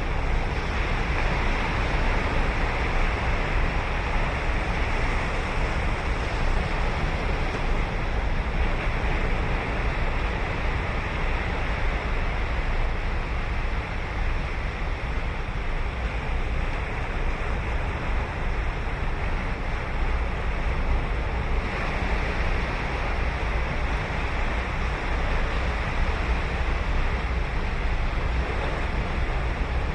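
Ocean surf breaking and washing up a sandy beach, a continuous rush that swells louder in the first few seconds and again about two-thirds of the way through. Wind on the microphone adds a low rumble underneath.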